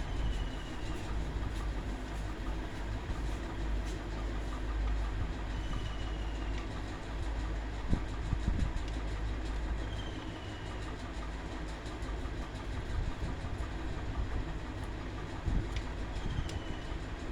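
Electric table fan running with a steady mechanical hum and whir. A faint short high chirp recurs about every four to five seconds.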